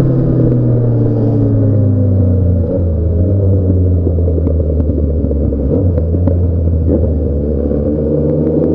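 Motorcycle engine with a straight-through exhaust, its pitch falling as it slows over the first few seconds, then running low and steady, and beginning to rise again near the end.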